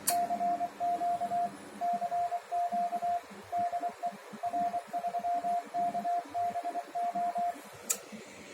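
Morse code keyed on a ham radio transceiver, heard as its CW sidetone: a single steady tone switched on and off in dots and dashes. A sharp click comes just before the keying starts and another shortly after it stops.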